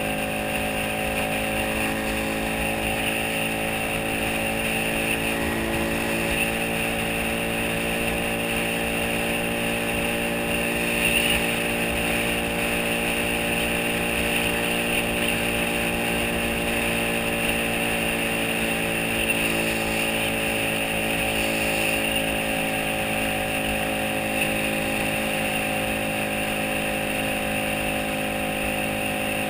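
Small motorcycle engine running steadily at cruising speed, its pitch drifting gently down and back up partway through, with wind and road noise.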